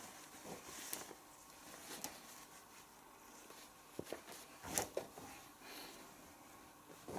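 Clothes being handled and pushed into a front-loading washing machine drum: faint rustling of fabric with a few light knocks, the loudest about halfway through.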